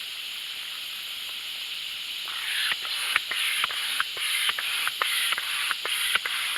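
Air hissing, then from about two seconds in an air pump working in steady strokes, about two and a half a second, each a puff of air with a short click, as it inflates an inflatable kayak.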